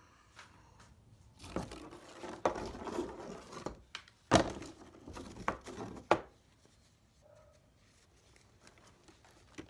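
Scrap pieces being handled and sorted by hand into buckets: rustling and scraping with several sharp clicks and knocks, the loudest about four seconds in, stopping about six seconds in.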